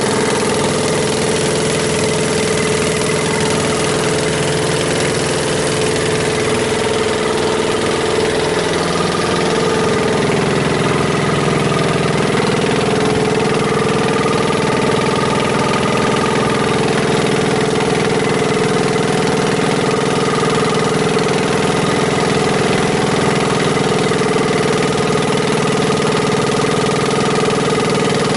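Longtail boat engine running steadily under way, with a slight shift in its note about nine seconds in.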